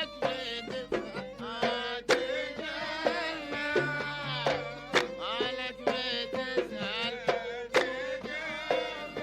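Bahraini sawt music from a Gulf-style ensemble, playing an instrumental passage. A wavering melody with vibrato is heard over sharp drum strokes.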